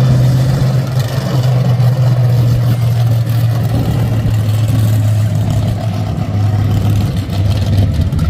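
Car engine running with a loud, steady low rumble, kept above idle because it won't idle; its speed eases down slightly about midway.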